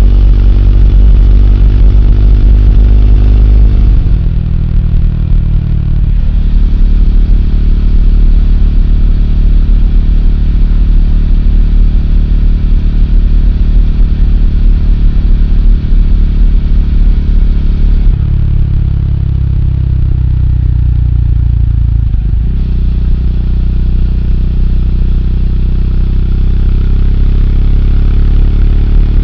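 Triumph Speed 400's single-cylinder engine running under way, its note changing pitch several times and climbing steadily between about 18 and 22 seconds in.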